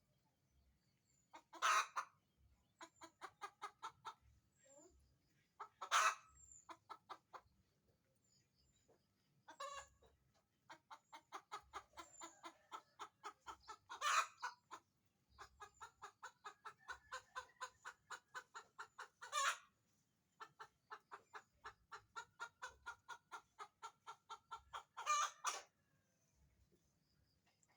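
Hen's laying cackle: runs of quick clucks, about four a second, each building to a loud drawn-out squawk, five times over. This is the call hens make around laying an egg.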